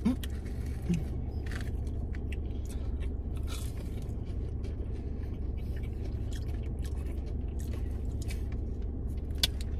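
Close-up chewing and biting of fried sliders and fries, with scattered small crunches over a steady low hum, and one sharp click near the end.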